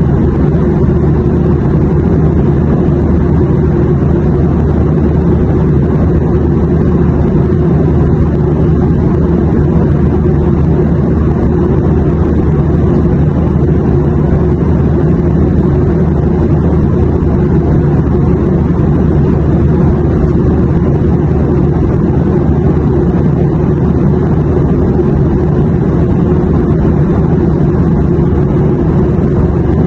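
Steady airplane noise: an even, unchanging low drone with no rise, fall or separate events.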